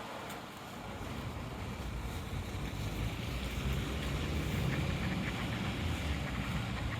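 Wind buffeting the microphone: a low rumble over a steady rushing noise, growing stronger about a second in.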